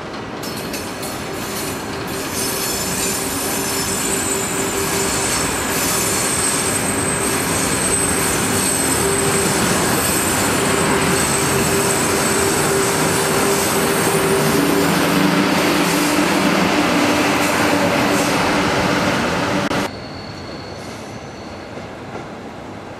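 Flåm Railway passenger carriages rolling slowly past, with a steady rumble of wheels on rail and held high-pitched wheel squeal. The sound drops away abruptly near the end.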